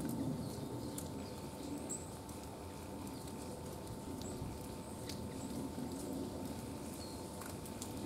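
Woodland ambience: a few brief, high chirps from small songbirds over a low rumbling background, with scattered faint clicks.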